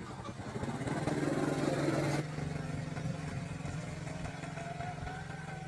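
A small engine running steadily, with a louder rush of noise over it for the first two seconds that cuts off suddenly.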